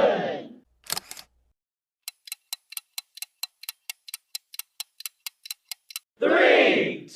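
Quiz sound effects: a loud crowd shout fades out, a sharp double click sounds about a second in, then a timer ticks evenly about five times a second for some four seconds, and another loud crowd shout starts near the end.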